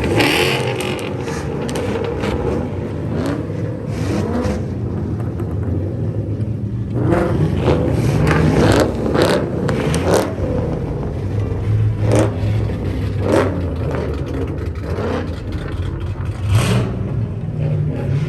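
Car engine running, its revs rising and falling at times, with scattered sharp knocks over it.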